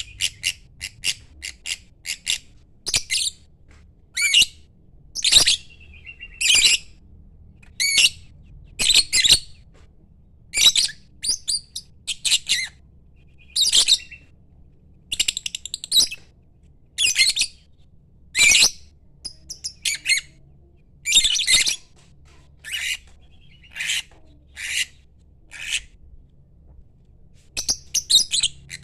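Lovebird calling: a long series of sharp, high chirps and squawks, often in quick clusters, with a few longer rasping calls among them.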